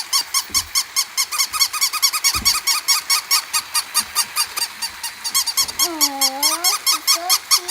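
Many puppies squeaking and yipping in a rapid, steady run of short high-pitched chirps, about seven a second, with one longer whine that dips and rises about six seconds in.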